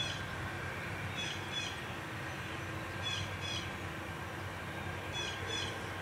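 A bird calling in short pairs of notes, one pair about every two seconds, over a steady low rumble.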